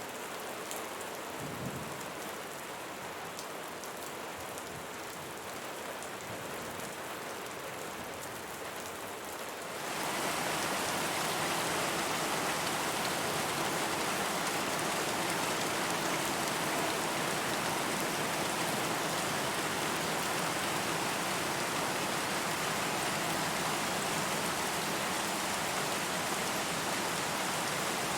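Steady rain falling, with fine patter of individual drops. About ten seconds in it turns abruptly louder and denser, into an even hiss of heavier rain.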